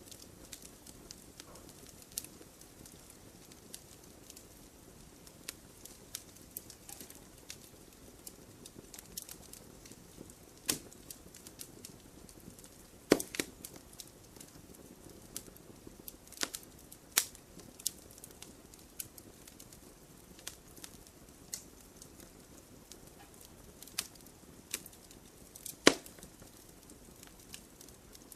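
Wood campfire burning: a soft steady hiss of flame with scattered sharp pops and cracks from the burning wood, the loudest about halfway through and again near the end.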